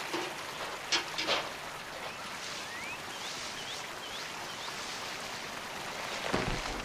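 Steady running water, with a couple of knocks about a second in. Midway a bird gives a series of five short, high, rising chirps.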